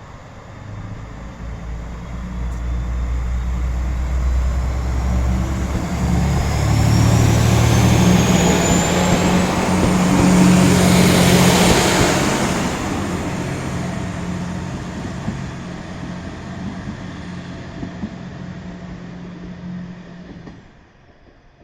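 KiHa 120 diesel railcar pulling away from a station: its diesel engine revs up under load, with a change in engine note about a third of the way in. It grows loud as the railcar passes, then fades away, and the sound drops off sharply near the end.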